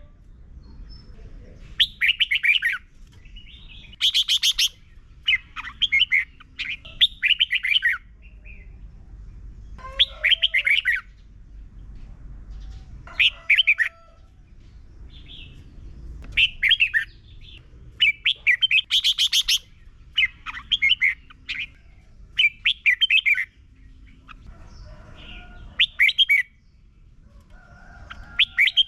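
Red-whiskered bulbul singing: about a dozen short, quick warbled song phrases, a second or two apart, over a faint low background rumble.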